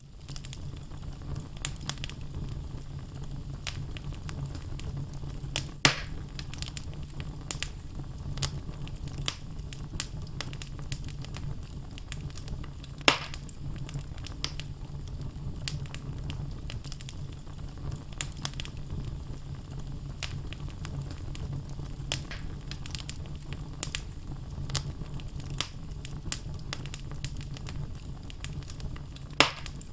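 Wood logs burning in a fireplace: steady crackling with many small snaps over a low rumble of flame, and three louder pops about six seconds in, about thirteen seconds in and near the end.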